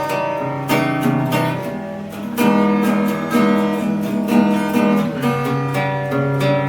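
Acoustic guitar strumming chords, changing chord every second or two.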